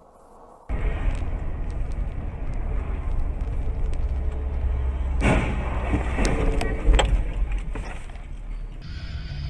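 Car road and engine rumble picked up by a dashcam, cutting in abruptly under a second in, with a few sharp knocks partway through, the loudest about seven seconds in.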